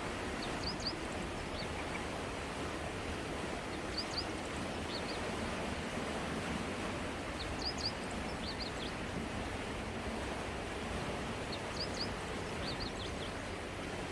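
Steady rush of a flowing river, with a bird's short high chirps in small clusters every few seconds.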